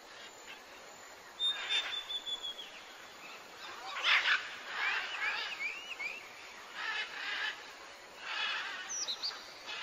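Birds chirping and calling: a short held whistle, then a quick run of rising-and-falling chirps, with several short scratchy bursts in between.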